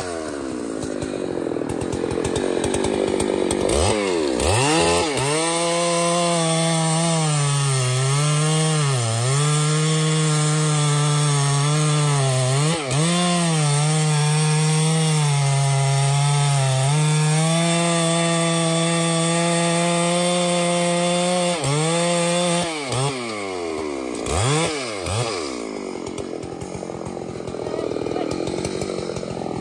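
Two-stroke chainsaw revved to full throttle and cutting into a tree trunk, its pitch dipping several times as the chain bites under load. It revs up about four seconds in and falls back toward idle about three-quarters of the way through.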